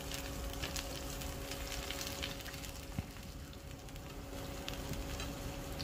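King oyster mushroom slices and fried tofu sizzling in hot oil in a nonstick pan over high heat, with scattered faint crackles and a single sharper click about three seconds in as the mushrooms are turned. A faint steady hum runs underneath.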